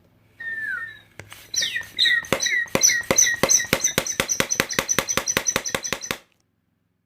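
Children's toy gun firing: a falling electronic zap, then rapid fire of sharp clicks with electronic beeps at about six shots a second, stopping suddenly about six seconds in.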